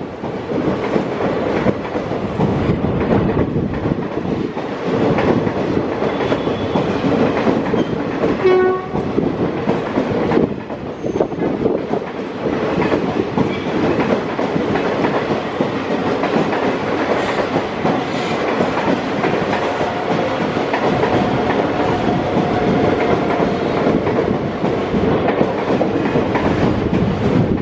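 Passenger coaches of the Parasuram Express rolling along the track, a steady rumble with the clickety-clack of wheels over rail joints. A short train horn toot sounds about eight seconds in.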